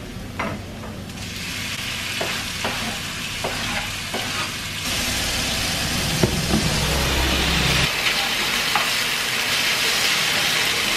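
Chopped kimchi sizzling as it goes into a hot nonstick frying pan with sesame oil and browned onions, the sizzle getting louder about a second in, while a wooden spatula clicks and scrapes against the pan as it is stirred.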